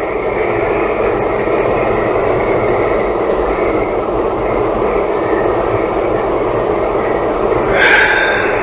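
Steady road and wind noise inside the cabin of a Toyota Tank minivan driving at highway speed through strong storm wind. A brief louder sound comes near the end.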